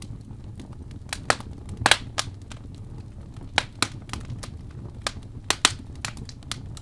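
Wood fire burning in a fireplace: a low steady rumble with irregular sharp crackles and pops, the loudest about two seconds in and again near the middle and later.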